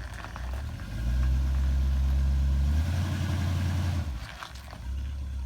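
A truck engine running with a steady low hum that grows louder about a second in and eases off after about four seconds.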